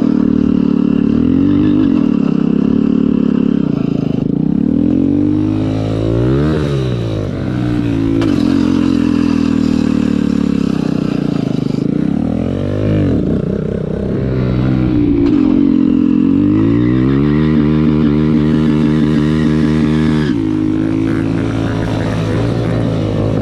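Small motorcycle engine held at high revs during a stunt ride, its pitch sagging and climbing back several times, then dropping lower near the end.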